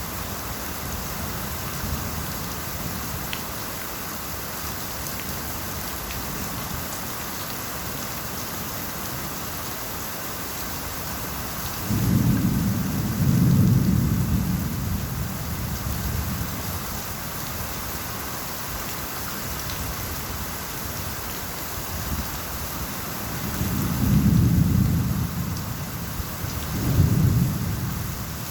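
Steady rain falling, with rolling thunder rumbling low three times: a long peal about twelve seconds in and two shorter ones near the end.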